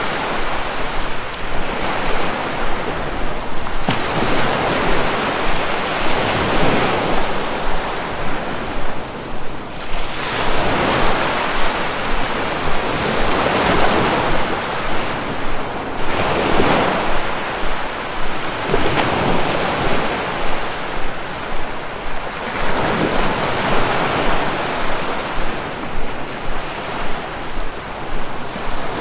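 Sea waves surging and washing in a continuous rush, swelling and falling back every few seconds.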